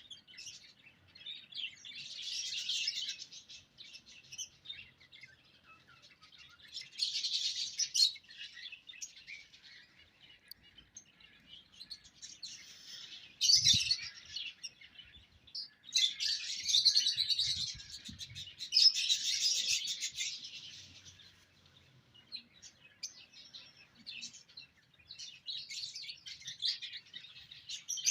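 Small cage birds chirping in quick bouts of a second or two, with short pauses between them.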